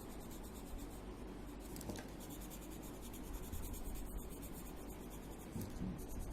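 Faint, steady scratching of colour being shaded onto paper in small back-and-forth strokes.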